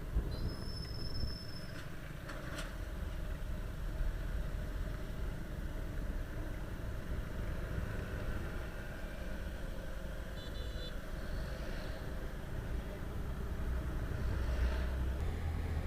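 Hero Honda Glamour 125 cc motorcycle running along the road, heard as a steady low rumble of engine and wind noise. A few brief high-pitched tones sound over it, about a second in and again around ten seconds in.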